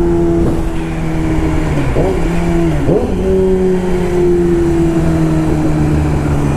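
Motorcycle engine running at a steady riding speed, its pitch sagging slowly, with two brief dips and recoveries about two and three seconds in, over low wind rumble.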